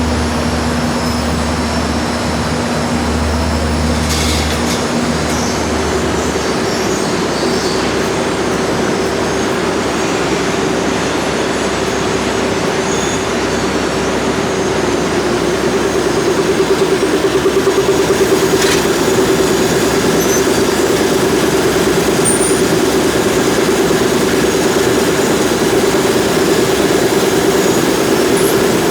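Factory production machinery running steadily with a loud, even noise. A low hum gives way to a higher steady tone about six seconds in.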